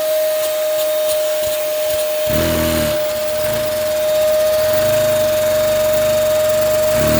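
Vacuum cleaner motor running with a steady high whine. About two seconds in, the vacuum-driven Lego engine starts turning, adding a lower hum that rises and falls in pitch and steadies near the end.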